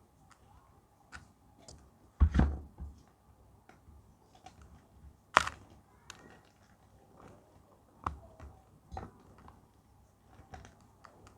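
Gym chalk being handled and crushed: scattered light taps and crunches, with one heavier thump about two seconds in and a sharp click about halfway through.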